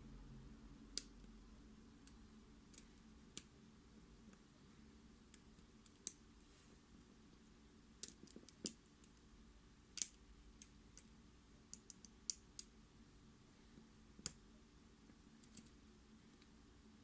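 Small sharp clicks and ticks from handling a Mul-T-Lock MT5+ lock and its tools, about twenty of them at irregular intervals, some in quick clusters, over a quiet background.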